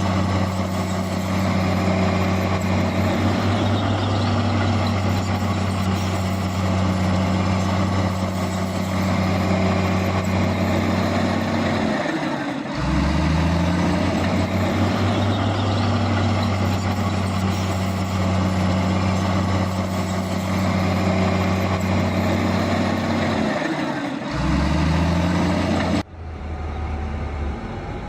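Heavy diesel engines of earthmoving machinery, a bulldozer pushing a dump truck, running hard and steady. Twice, about twelve seconds apart, the engine note sags briefly and climbs back up. Near the end the sound changes abruptly to a quieter engine.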